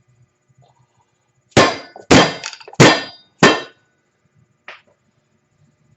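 Hammer striking metal on an ATV's front suspension: four hard blows with a short ring, about two a second, then one lighter tap, driving a part through until it seats.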